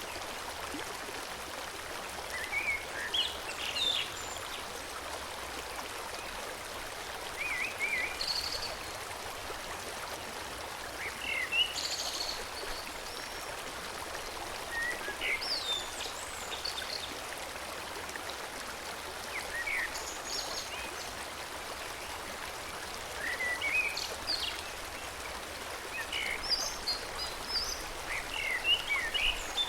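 Forest stream flowing steadily, with birds singing short chirping phrases every few seconds over it.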